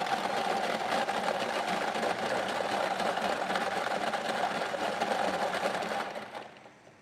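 Electric lottery ball draw machine running, its numbered balls rattling and tumbling steadily for about six seconds before it winds down and stops.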